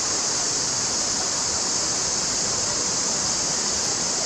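A mountain stream flowing over rocks: a steady, even rushing, with a steady high-pitched hiss layered over it.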